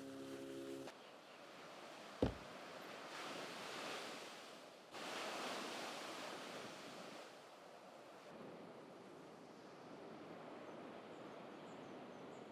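Faint wash of sea surf and wind, its level shifting abruptly a few times, with a single sharp thump about two seconds in. A short steady hum opens it.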